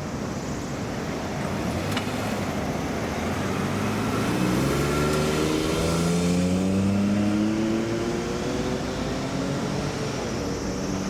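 A motor vehicle's engine accelerating, its note rising steadily over about four seconds before levelling off, over a steady background of road traffic noise.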